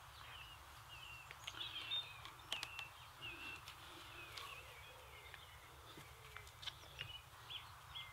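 Faint songbirds chirping and twittering with short, quick notes, and a few light clicks and rustles close by.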